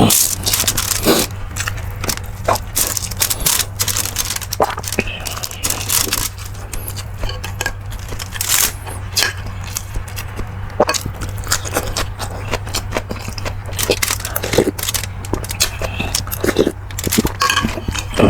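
Eating sounds from a bowl of beef bulalo: utensils scraping and clinking against the bowl and bones, with chewing, as irregular sharp clicks and short scrapes. A steady low hum lies underneath.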